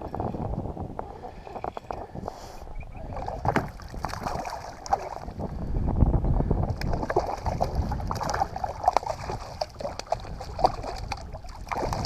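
Water sloshing and splashing around a fishing kayak, with irregular small knocks and clicks against the boat, over a low wind rumble on the microphone.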